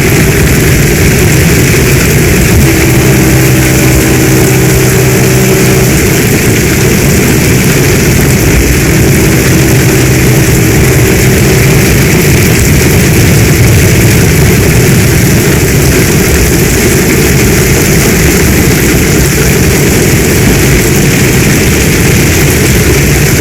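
Heavy rain pouring in a storm, a loud, steady, dense hiss. Faint low steady tones come in twice, a few seconds in and again about ten seconds in.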